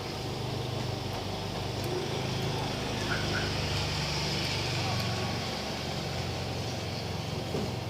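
A steady, low motor hum with a faint hiss over it, like an engine running nearby.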